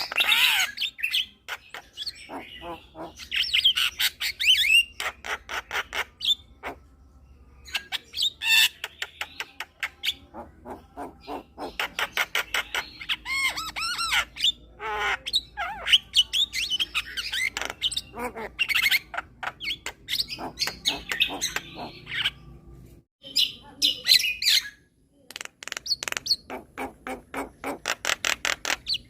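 Javan myna singing a fast, rambling chattering song: rapid clicks, sweeping whistles and harsh squawky notes, broken by a couple of brief pauses late on.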